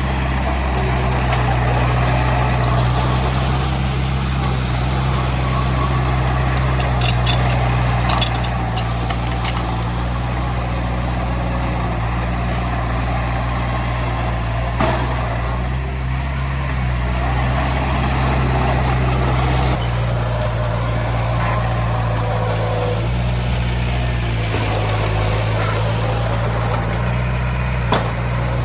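Heavy diesel engine of earth-moving machinery running steadily under load, with a few sharp metallic clanks; the engine note shifts slightly about two-thirds of the way through.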